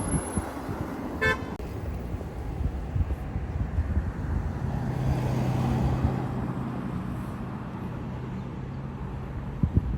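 Road traffic rumbling, with a single short car-horn beep about a second in. A steady low engine hum sets in about halfway through and runs on until near the end.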